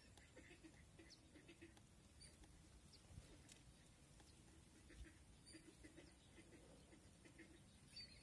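Near silence: outdoor quiet with faint, scattered high chirps and ticks.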